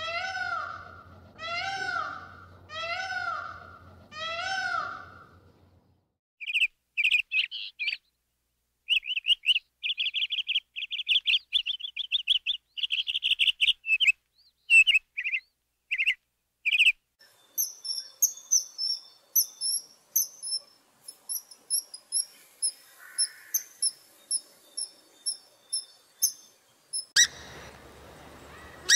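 Peacock calling, five loud wailing calls about a second apart. These are followed by small birds chirping and twittering in quick runs, the later notes much higher and thinner.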